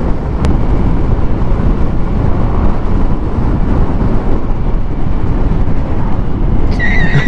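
Wind buffeting the microphone and road noise from a Yamaha NMAX V2 scooter cruising at about 86 km/h, a loud steady rush. A short high-pitched tone sounds near the end.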